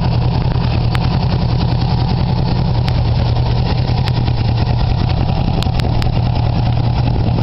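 Motorcycle engine idling steadily just after the choke has been turned off, running on fuel fed through a hollow-ball gasoline vaporizer. A few faint light ticks sound over the idle.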